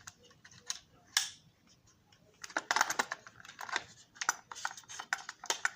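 Small plastic clicks and taps, a few scattered at first and then a dense, rapid run from about halfway, as a loose light piece is worked back into its slots in a model railroad dome car body.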